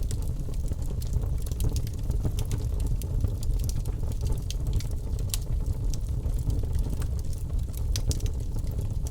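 Birch logs burning in a fireplace: a steady low rumble of flames with frequent sharp crackles and pops, several a second.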